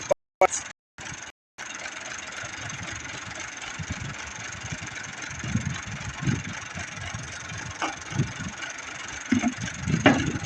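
An engine running steadily with an uneven low chugging, and a few sharp clicks near the end. In the first second and a half the sound cuts out to silence several times.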